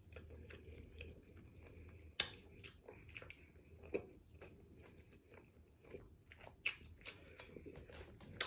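A person chewing a soft chicken burrito, faint wet chewing broken by a few sharp mouth smacks about every second or two.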